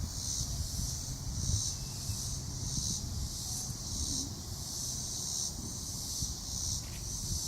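Insects calling in a high, pulsing chorus that swells about once a second, over a low rumble of wind or handling noise.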